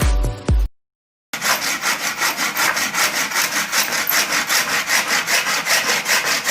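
A hand saw cutting through wood with quick, even back-and-forth strokes, starting after a brief burst of background music and a moment of silence.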